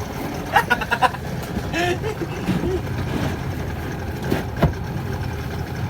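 Steady low rumble of a banana boat ride under tow, with brief distant voices calling out and a single knock about four and a half seconds in.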